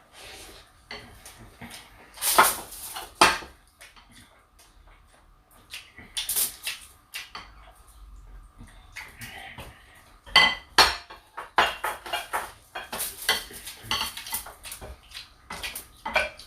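Metal cutlery clinking and scraping against plates while eating, in irregular clusters of sharp clinks; the loudest come about two to three seconds in and again about ten seconds in.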